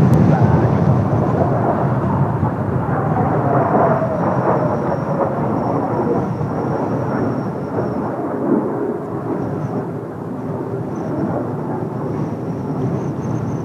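Kawasaki T-4 jet trainers' turbofan engines rumbling as the formation passes, loudest at first and slowly fading away, with a faint falling whine in the middle.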